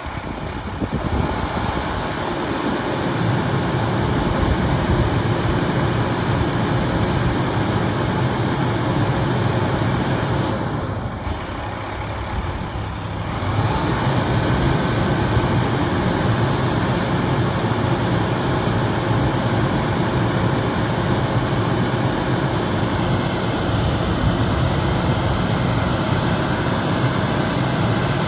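A 2011 International 7300 bucket truck's diesel engine runs steadily at raised idle to drive the boom hydraulics, which a pressure switch brings up only while a boom function is in use. About eleven seconds in it drops quieter for a couple of seconds, then rises back up.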